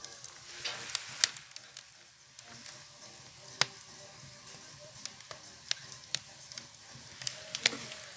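Wood fire crackling inside a homemade burzhuika stove: irregular sharp pops and snaps over a faint steady hiss.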